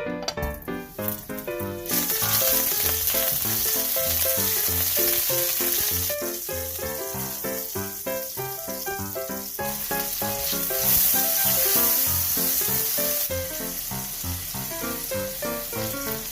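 Food sizzling as it fries in a hot pan, starting about two seconds in and swelling louder twice, over background music with a steady beat.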